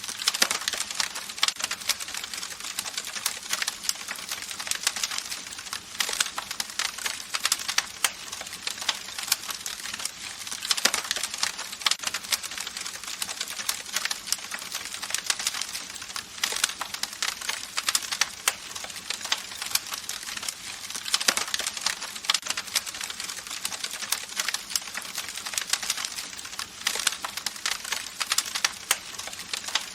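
Campfire crackling: dense, irregular pops and snaps of burning wood over a steady hiss of the flames.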